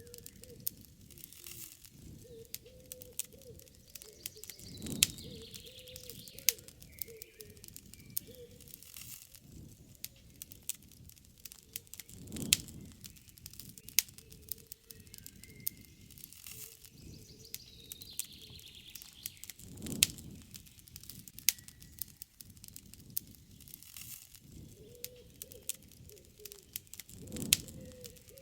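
Wood campfire crackling with frequent sharp pops, while birds chirp and a dove coos low in the background. A soft low rush swells and fades every seven or eight seconds.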